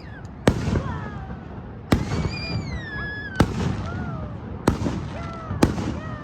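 Fireworks shells bursting in the sky: five sharp bangs, one every second or so.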